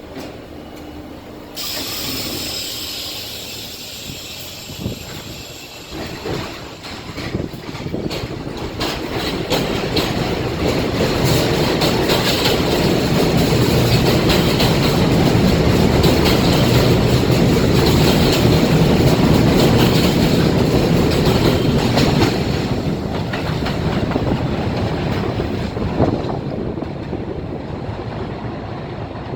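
New York City subway train on the BMT Jamaica Line, wheels clattering on the rails as it comes near and passes, loudest midway and then fading. A high squeal starts suddenly about two seconds in.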